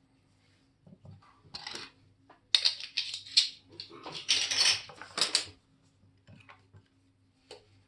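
Small metal parts and watchmaker's tools clinking and scraping on a hard bench surface as the watch is handled, in a quick run of clicks and short scrapes that peaks in the middle, over a faint steady hum.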